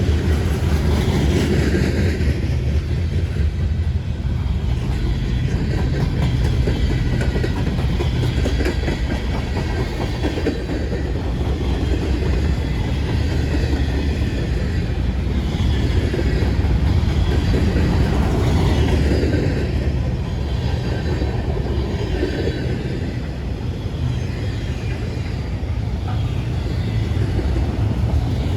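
Freight train rolling past: the cars rumble steadily, with the wheels clicking over the rail joints.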